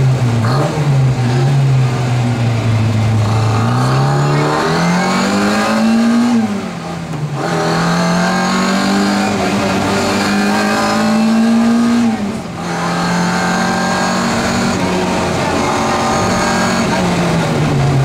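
Classic Mini Cooper S rally car's A-series four-cylinder engine heard from inside the cabin, accelerating hard with the revs climbing. The engine note drops briefly twice, about six and twelve seconds in, as the driver lifts off or changes gear, then builds again.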